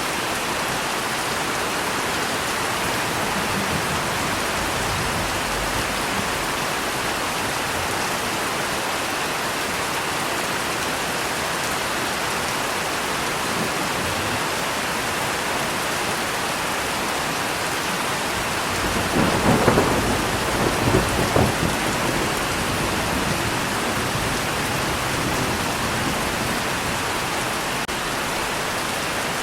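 Steady heavy rain falling, with a clap of thunder crackling and rumbling for a few seconds about two-thirds of the way in.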